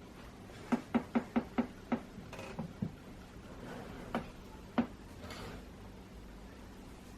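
Light, sharp knocks from hand work on a car headlight while its new glass lens is fitted and sealed: a quick run of about six, roughly five a second, then two more single knocks a couple of seconds later.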